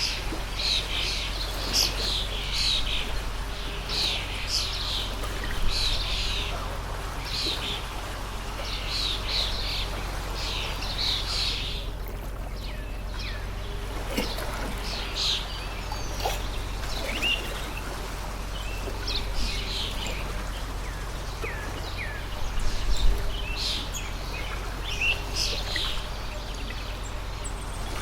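Small birds chirping and calling, many in quick succession for the first twelve seconds and fewer after that, over the steady rush of a flowing stream.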